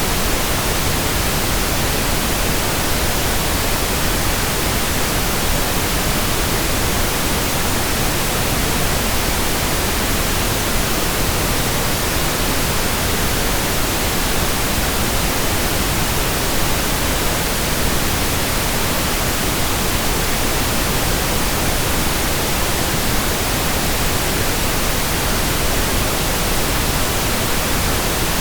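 Steady pink noise: an even, unbroken hiss spread across all pitches, without change.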